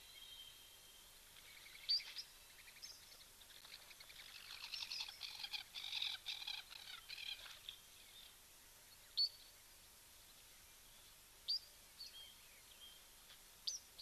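Wild birds calling: single short, sharp, rising chirps every few seconds, with a stretch of rapid chattering calls in the middle, over a faint steady hiss.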